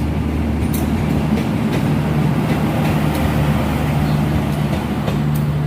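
Train running close by: a steady low engine drone over a continuous rumble.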